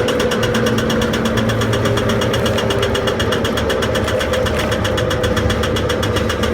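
Leus LS R60 tractor's engine running steadily, driving the attached Demarol R10 branch chipper, with a fast, even clatter over the engine note.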